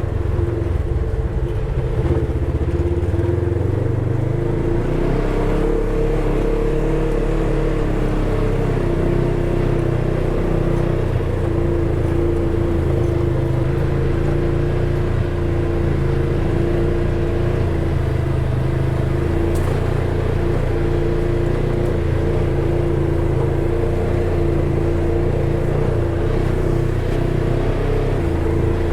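Polaris side-by-side UTV engine running steadily at a moderate speed, with a constant droning note that shifts slightly in pitch a few seconds in.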